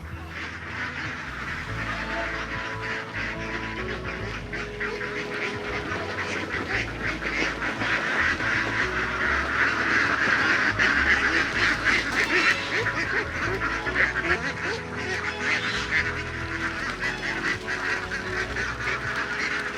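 A large flock of ducks calling together in a dense, continuous chatter that grows louder toward the middle.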